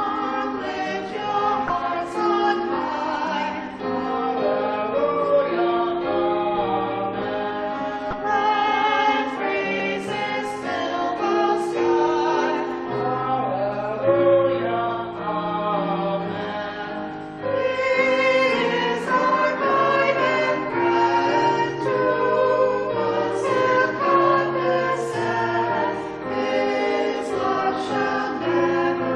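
A choir singing a hymn with instrumental accompaniment, the voices steady throughout.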